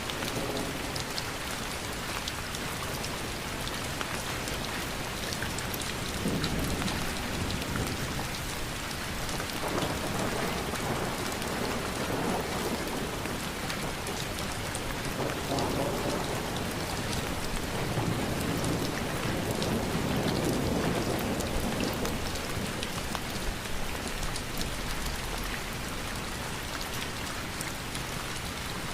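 Steady rain with dense patter of drops, broken by several low rumbling swells a couple of seconds long.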